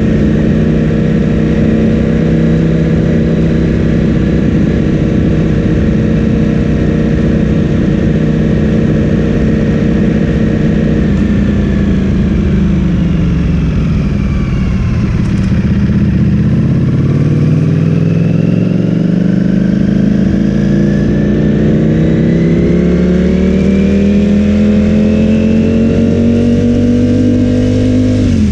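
Ducati Streetfighter V4 S's V4 engine through an Akrapovic full-system exhaust, heard from the moving bike: holding steady revs for about ten seconds, then revs falling away over several seconds, then climbing in one long steady pull, with a brief dip at the very end as a gear is changed.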